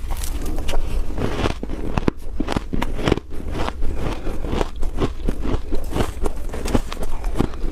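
Freezer frost being bitten and chewed: a dense, irregular run of sharp crackling crunches.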